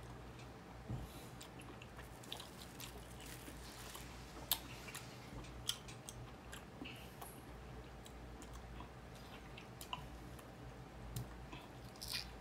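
Faint wet chewing and lip-smacking of a person eating orange segments and mango, with scattered small clicks, two sharper ones near the middle.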